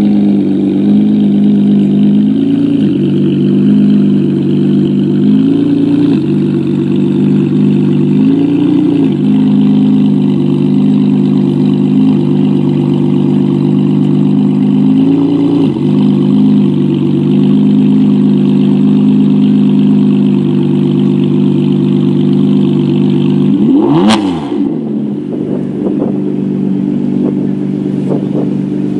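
Novitec Rosso-tuned Ferrari 599 GTB's V12 running at low revs, with a short throttle blip every few seconds. About 24 s in there is one sharp rev with a crack, after which the engine sounds quieter.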